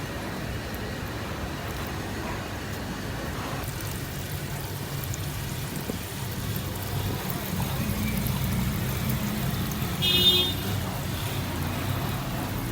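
A motor vehicle engine running steadily, with a short high-pitched horn toot about ten seconds in.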